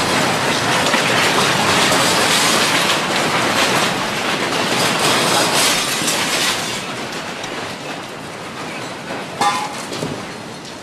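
Loud rumbling and rattling clatter of a building and its contents shaking in an earthquake, easing after about seven seconds. A brief high-pitched cry or squeal comes near the end.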